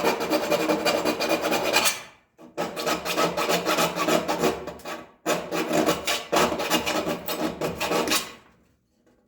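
Hand file rasping in quick strokes against a bracket, taking more material off it. It goes in three long runs with short breaks between them, and stops shortly before the end.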